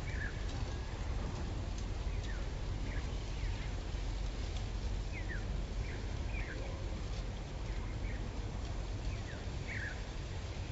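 Small birds chirping: short, quick downward chirps at irregular intervals, over a steady low rumble.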